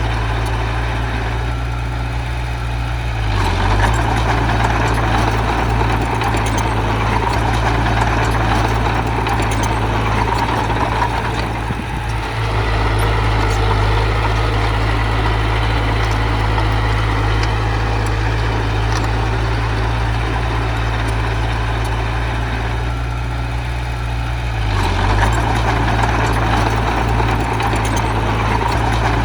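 Diesel engine of a heavy earthmoving machine running steadily, working harder and louder about three and a half seconds in and again near the end.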